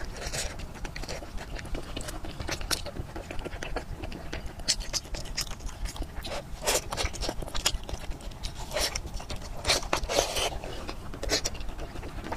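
Close-miked biting and chewing of soft braised fatty pork belly: a run of irregular mouth clicks and smacks, with a few louder ones around the middle and about ten seconds in.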